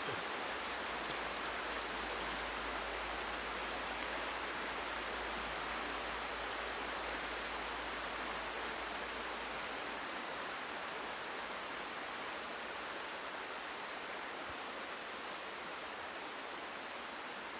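River water rushing steadily, an even noise with no rhythm. A low rumble underneath dies away about ten seconds in.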